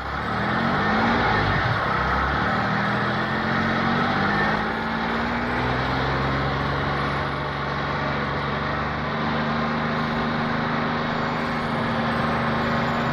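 Car engine sound effect, revving up with a rising pitch, then running steadily at an even pitch from about five seconds in.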